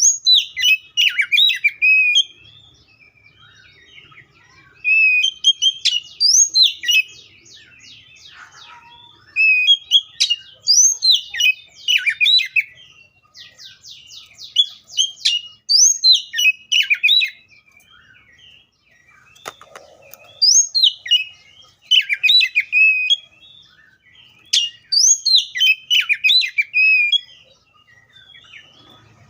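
Oriental magpie-robin singing: bursts of loud, quick, varied whistled notes every few seconds, some phrases ending in a rapid rattling trill.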